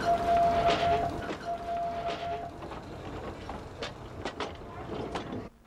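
3 ft gauge Bord na Móna bog train running on narrow-gauge track, with a low engine hum. A steady high tone sounds over the first two and a half seconds, then a few sharp clicks from the running gear as the sound fades away near the end.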